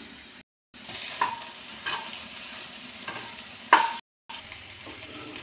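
Chopped okra sizzling as it fries in a kadhai, with a metal spoon scraping and clinking against the pan as it is stirred; the loudest scrape comes about two-thirds of the way through. The sound drops out twice for a moment.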